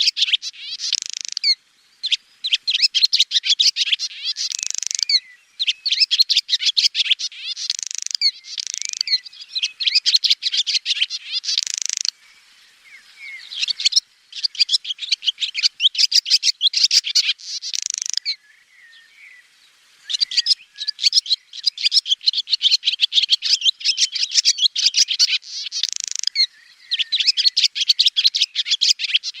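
Swallow twittering: fast runs of high, bright chirps and trills in bouts of a few seconds, separated by short pauses, with two quieter lulls partway through.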